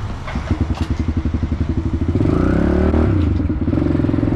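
Pit bike's small single-cylinder engine chugging at low revs from about half a second in, then revving up and pulling away about two seconds in, its pitch rising and falling.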